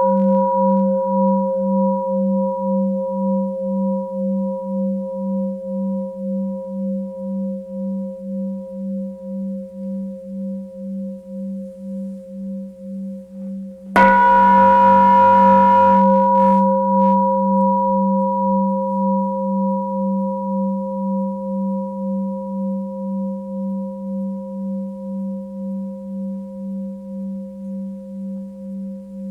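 Tibetan singing bowl struck and left to ring: a long, slowly fading ringing tone with a wavering pulse about twice a second. It is struck again about halfway through, and the ring swells back up before fading once more.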